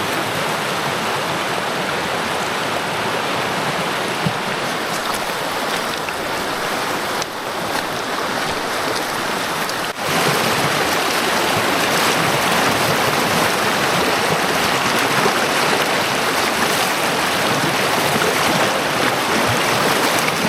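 Brook water rushing steadily over rocks, a dense even hiss of flowing water. The level shifts slightly about seven and again about ten seconds in.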